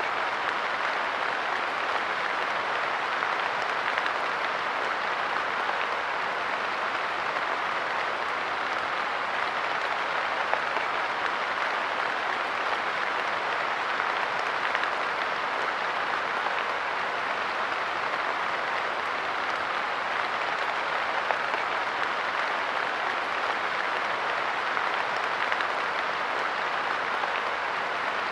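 Light rain falling steadily on a park bench, a dense even patter of drops with no change in strength.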